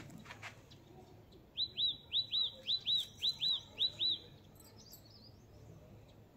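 A small bird chirping: about ten quick, high chirps in five pairs, starting about one and a half seconds in and lasting some two and a half seconds.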